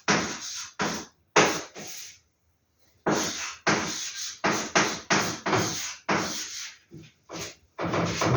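Vintage posters and their paper wrapping being handled: a quick run of sharp rustling, crinkling strokes, two or three a second, broken by a pause of about a second near the middle.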